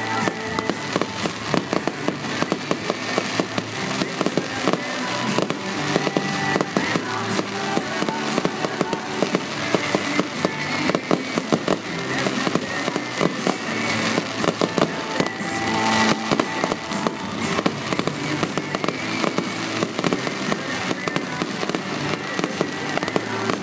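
Fireworks display with a dense, continuous run of rapid pops, crackles and bangs, over music with sustained tones.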